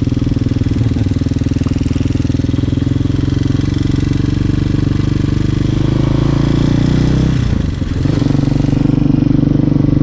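Hawk 250 motorcycle engine running under way, picked up by a helmet or bike-mounted action camera. The pitch rises a little, eases off briefly about three quarters of the way in, then picks up again.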